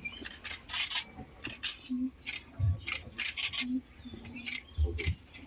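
Scattered sharp clicks and rattles, with a few brief, low voice-like sounds and soft thumps.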